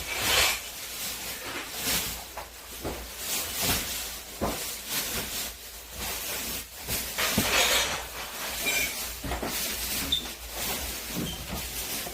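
Irregular rustling, swishing and scraping with a few knocks, like household items and bags being handled and moved during a clear-out.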